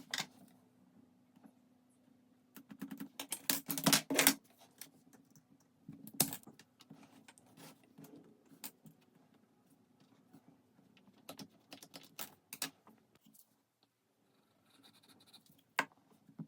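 Small hard wooden pieces clicking and clacking against each other and the work surface as they are handled, in irregular bursts with the densest clatter a few seconds in, over a faint steady hum.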